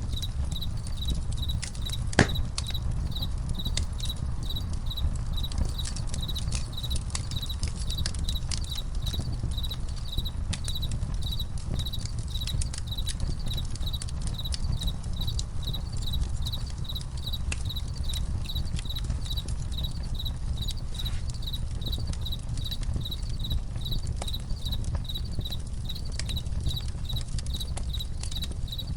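Crickets chirping steadily, about three chirps a second, over a crackling campfire that gives scattered pops, one sharper pop about two seconds in, with a low steady rumble underneath.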